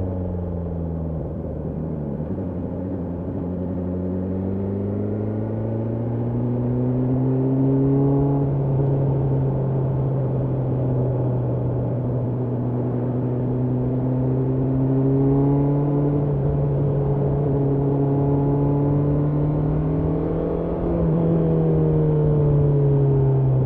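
BMW S1000R's inline-four engine running on the move, its note holding fairly steady with slow rises in pitch, climbing once more late on and then easing off near the end.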